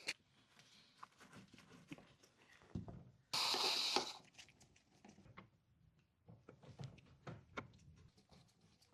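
Scattered light clicks and knocks of plastic undertray panels and fasteners being handled and fitted under a car, with a brief louder burst of noise about three seconds in.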